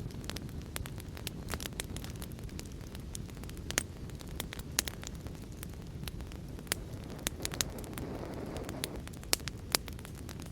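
Wood fire crackling, with sharp irregular pops over a steady low rumbling hiss of fireplace-and-rain ambience. A soft swell of hiss rises and fades about eight seconds in.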